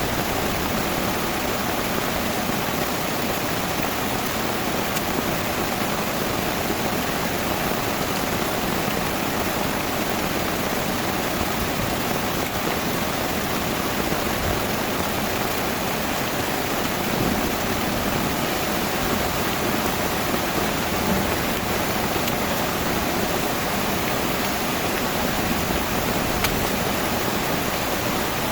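Heavy tropical rain falling steadily, a dense even hiss that does not let up.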